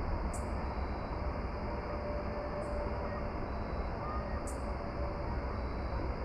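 Outdoor evening ambience: a steady low rumble under a constant high hiss, with three brief high-pitched chirps roughly two seconds apart.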